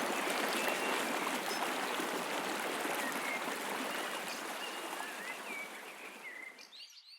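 River whitewater rushing steadily, with a few faint bird chirps over it; the rushing fades out near the end.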